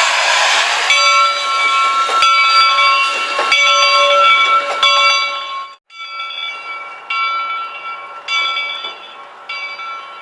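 A locomotive bell ringing steadily, struck about once every second and a quarter, with a loud steam hiss under it in the first second. The sound cuts out briefly about halfway through, then the bell rings on.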